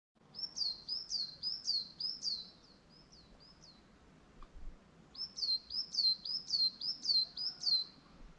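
A songbird singing two phrases of repeated high, downslurred whistled notes, about two a second. The first phrase trails off fainter about three and a half seconds in, and the second starts about five seconds in and is the louder of the two.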